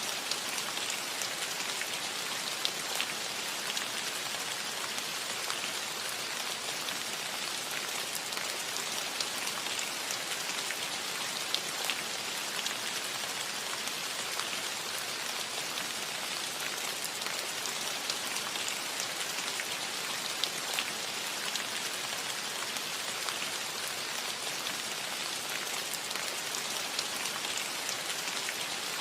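Steady rain falling on a metal roof, an even hiss dotted with the small ticks of individual drops striking the metal.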